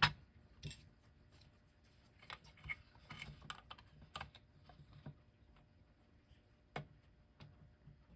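Faint, scattered clicks and light taps of small tools on a clock's parts, irregular like typing, with a sharper click at the start and another near the end.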